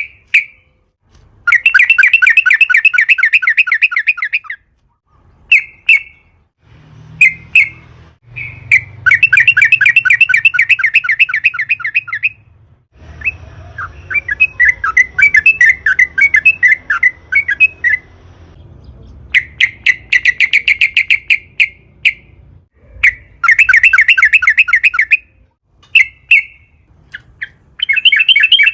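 Yellow-vented bulbul (trucukan) singing. Several long, fast trilled phrases of rapidly repeated notes, each two to three seconds, alternate with short single calls, and there is a looser warbling passage in the middle.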